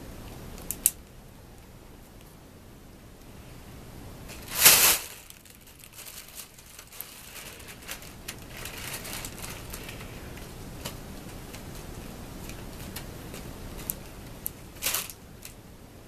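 Crinkly rustling with scattered light clicks in a small room, including one loud rustling burst about four and a half seconds in and a shorter one near the end.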